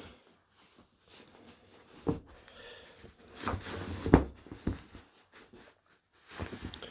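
Muffled thumps and scuffling of a padded dog bed being pushed about and pawed at, with scattered soft knocks, the strongest about two and about four seconds in.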